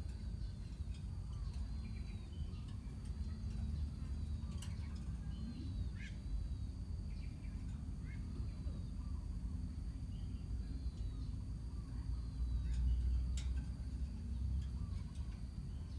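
A colony of lovebirds chattering: scattered short chirps, squeaks and clicks, with no single bird dominating, over a steady low rumble.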